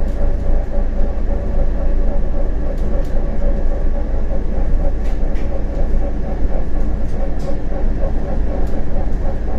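CAF Urbos 100 tram running along the line: a steady low rumble of wheels on rail with a steady mid-pitched tone over it, and a few faint clicks.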